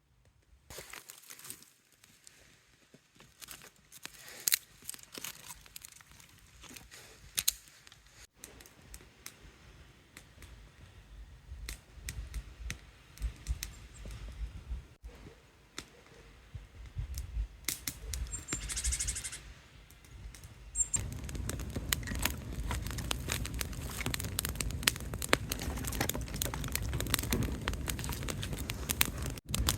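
Scattered crinkling and snapping of dry kindling, then, from about two-thirds of the way in, a small campfire crackling louder and denser over a low rumble.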